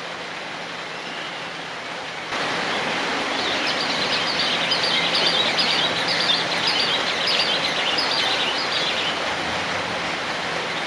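A pair of great kiskadees calling in their greeting display: a fast run of shrill, repeated notes from about three and a half to nine seconds in, over a steady hiss that grows louder about two seconds in.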